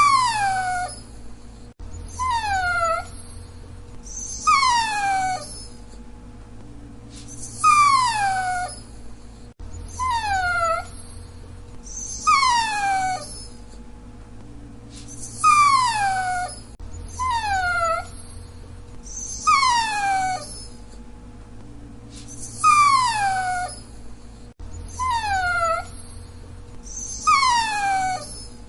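Dachshund whining: a dozen or so high whines, each gliding down in pitch over about a second, repeating every one to three seconds.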